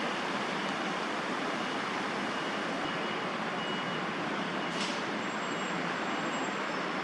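Steady hum of city road traffic, an even wash of noise with no single vehicle standing out. Faint thin high tones come and go, and a brief high hiss sounds about five seconds in.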